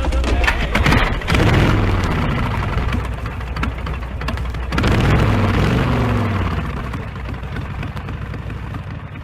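A motor vehicle's engine revving up twice, about three and a half seconds apart, over a steady low rumble, then fading away near the end.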